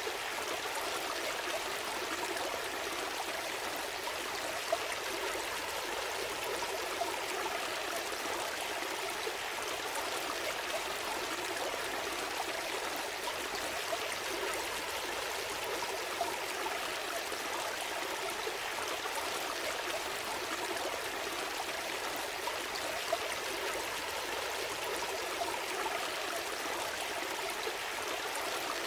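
A gentle stream flowing steadily, a continuous rushing and trickling of water with small splashy ticks here and there.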